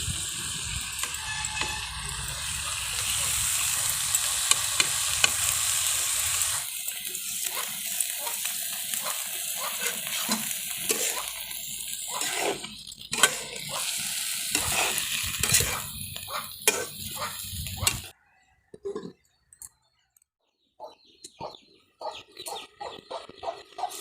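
Food sizzling in a cooking pan while it is stirred, the spatula scraping the pan in repeated strokes. The sound cuts off abruptly about three-quarters of the way through, leaving only scattered small clicks and clinks.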